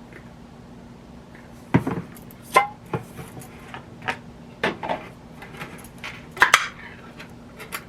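Canned beans being opened by their pull tabs: a series of sharp metal clicks and scrapes, loudest about six and a half seconds in.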